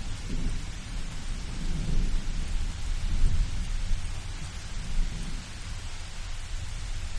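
Thunder rumbling low and rolling over steady rain hiss; the rumble swells in the middle and fades away near the end, leaving the rain.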